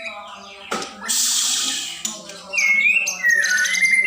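A songbird calling: a harsh, raspy note about a second in, followed by loud whistled notes that slide up and down.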